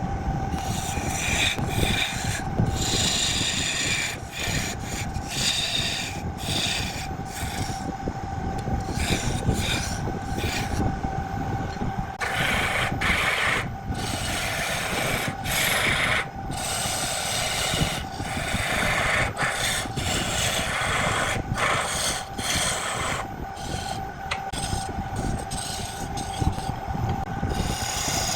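Wood lathe running with a steady whine while a tool scrapes against the spinning wood in repeated passes, the rasping noise breaking off briefly between strokes.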